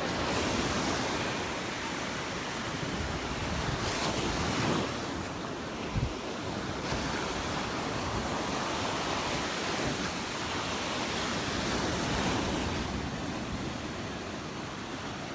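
Gulf surf washing onto the beach in swelling and fading waves of noise, with wind buffeting the microphone. A brief low thump about six seconds in.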